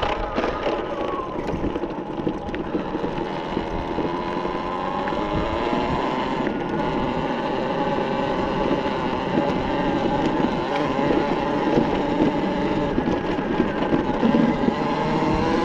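Talaria Sting electric dirt bike's motor whining while it is ridden, the pitch gliding up and down with throttle and speed, over a steady rush of noise.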